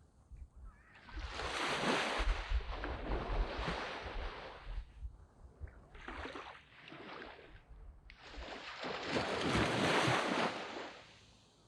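Waves breaking and washing up a sandy beach: a big surge of surf about a second in, a smaller one in the middle, and another big one around eight seconds in that fades away near the end.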